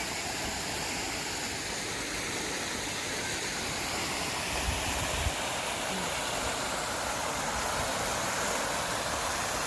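Park water fountain splashing, a steady rush of falling water, with a brief low rumble about five seconds in.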